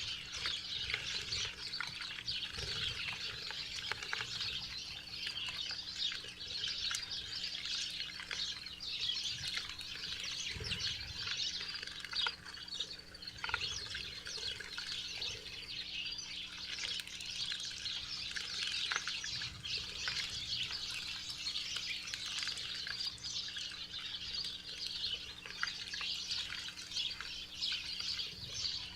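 A flock of small songbirds chirping and twittering, a dense unbroken chatter of short high chirps.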